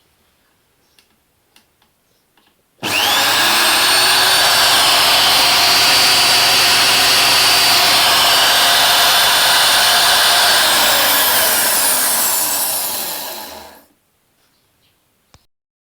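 Cordless driver's DC motor starting about three seconds in, spinning up quickly with a rising whine, running steadily at high speed, then slowing with a falling whine and stopping a couple of seconds before the end.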